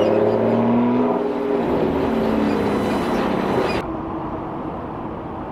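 Motor vehicle engine pulling, its pitch rising slightly in the first second and then holding steady. About four seconds in, the sound changes abruptly to a duller, quieter road noise.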